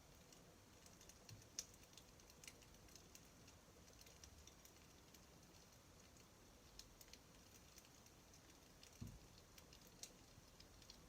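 Wood fire crackling faintly, with small irregular pops and snaps scattered through, and one soft low thump about nine seconds in.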